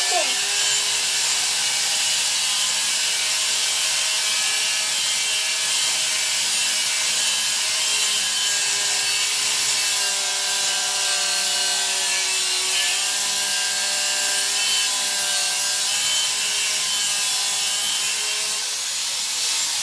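Power tool running steadily while cutting steel, a constant hissing cut over a steady motor whine whose pitch sags slightly about two-thirds of the way through as it takes more load.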